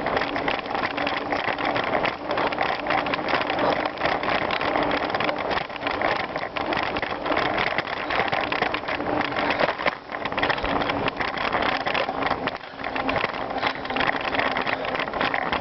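Bicycle being ridden over gravel: a continuous noise of tyres rolling on loose stones, full of small rattling clicks, easing briefly twice.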